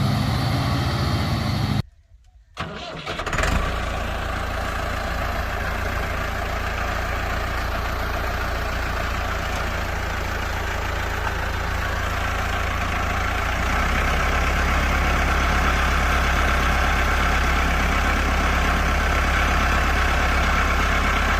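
Vehicle engine running. It cuts off abruptly about two seconds in, starts again about a second later, then runs steadily and grows louder about fourteen seconds in.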